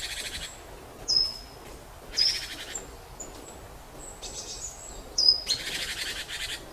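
Birds calling: a few short, sharp whistled notes, the loudest about a second, two seconds and five seconds in, between bursts of a harsh buzzing trill that comes back every couple of seconds.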